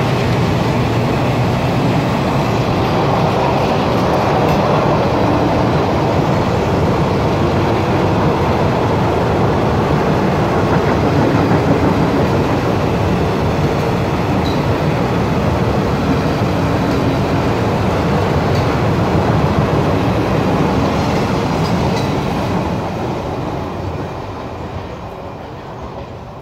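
Indian Railways passenger coaches running past a station platform: the steady, loud noise of steel wheels on rails, dying away over the last few seconds.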